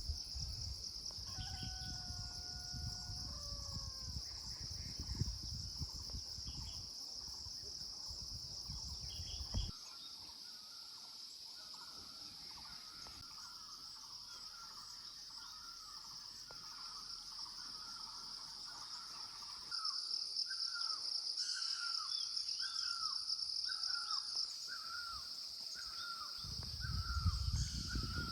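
Countryside ambience: a steady high-pitched insect drone with birds calling over it. From about ten seconds in, one bird repeats a short call about once a second. A low rumble, like wind on the microphone, comes in the first third and again near the end.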